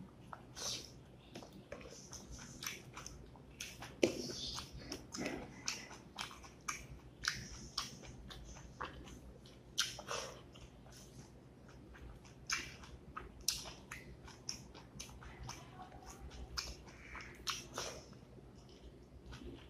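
Close-miked chewing of rice with beef curry and dal eaten by hand: a steady, irregular run of short mouth clicks and chewing noises, about one or two a second.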